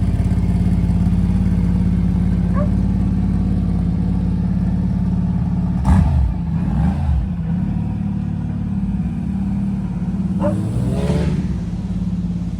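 Aston Martin Vantage AMR GT3 Evo race car's twin-turbo V8 idling, given a sharp blip of the throttle about six seconds in and a shorter rising blip near the end.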